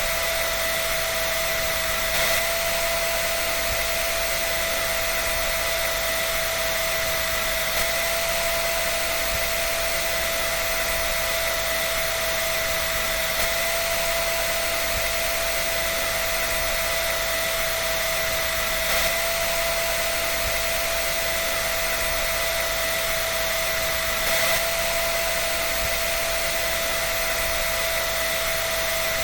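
Hair dryer running continuously at a steady speed: an even rush of blown air with a constant motor whine, unchanging throughout.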